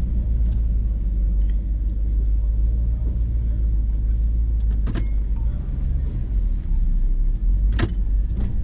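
Hummer H2 engine and drivetrain rumbling steadily, heard from inside the cab as it crawls down a rocky trail. Two sharp knocks come through, one about halfway and one near the end.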